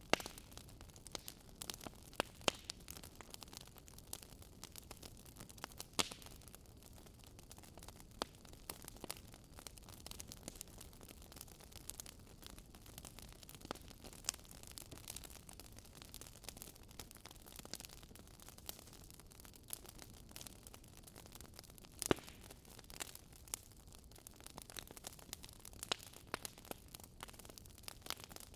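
Campfire crackling, with irregular snaps and pops of burning wood over a faint steady hiss. The sharpest pops come right at the start, about 2 and 6 seconds in, and about 22 seconds in.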